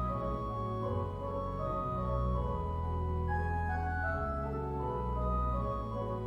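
Organ music: slow sustained chords over long-held bass notes, with a melody line moving on top.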